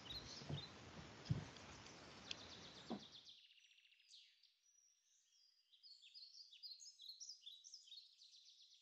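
Faint birdsong: short high chirping notes over soft room noise with a few light knocks, all cutting off abruptly about three seconds in; after a short silence a quick run of high chirps comes back for about two seconds.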